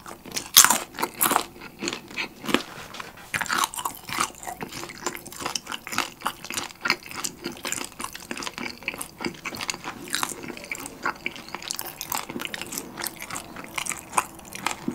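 Close-miked chewing of crispy Korean market-style fried chicken: a dense run of crackling crunches from the fried batter, loudest in the first second or two.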